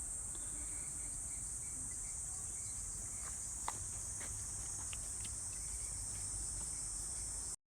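Steady, high-pitched chorus of insects shrilling in woodland, with a few faint ticks and one sharper click a little past halfway; the sound cuts off abruptly near the end.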